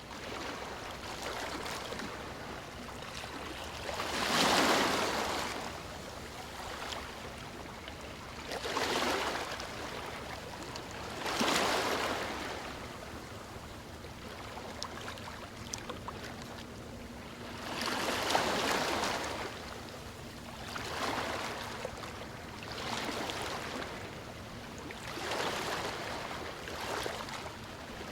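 Gentle ocean waves lapping on a shore: a steady wash of surf that swells and falls back every few seconds as each wave breaks, about eight times.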